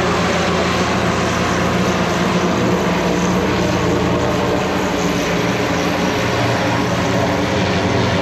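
Propeller aircraft engine running at a steady, unchanging pitch, with an even drone of stacked tones.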